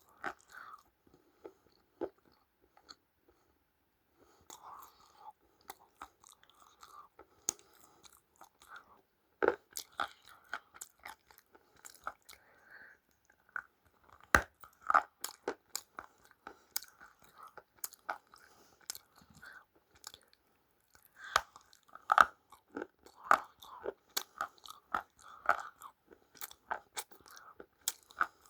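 Close-up biting and chewing of crunchy food: irregular sharp crunches, with a couple of brief lulls between bites.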